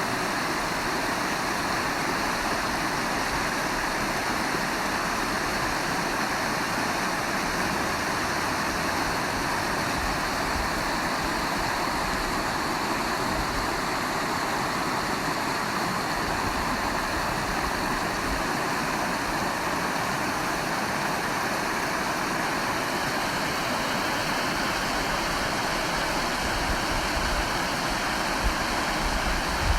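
Rain falling steadily, an even hiss with no breaks, with a few low rumbles near the end.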